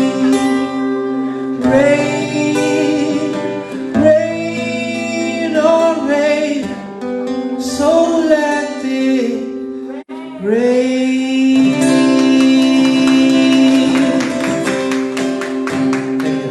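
A singer holds long, wavering notes over acoustic guitar accompaniment as the song's final chorus closes. About ten seconds in the sound drops out for a moment. After that the guitar strums steadily under a last held vocal note.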